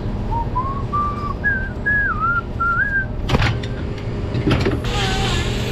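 A person whistling a short tune of about eight notes, climbing in pitch, over a steady low machine hum. A sharp knock comes about three seconds in.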